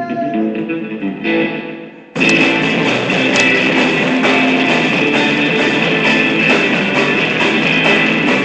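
Guitar music without singing: picked notes at first, then about two seconds in a much louder, dense strummed passage begins and carries on.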